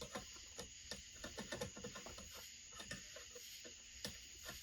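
Small clicks and knocks of metal and plastic chainsaw parts and hand tools being handled on a workbench, a quick run of them in the first couple of seconds, then a few scattered ones.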